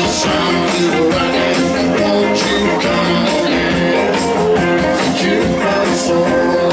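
Live blues-rock band playing, with guitar, drums and singing, recorded from the audience.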